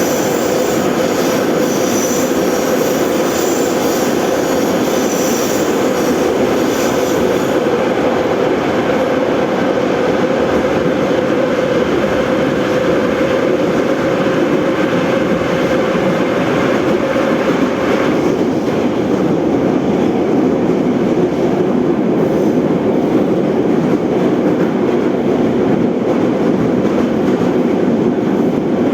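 81-717/714 metro train running between stations: a loud, steady rumble of wheels and running gear, with a high wheel squeal over the first several seconds that stops about seven seconds in.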